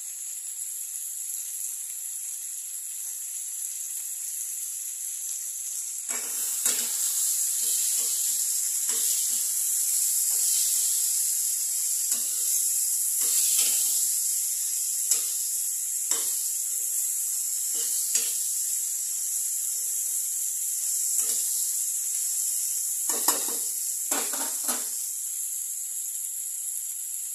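Sprouted moth beans and vegetables sizzling in oil in a kadhai. From about six seconds in, a steel spatula scrapes and knocks against the pan in short, irregular strokes as the mix is stirred.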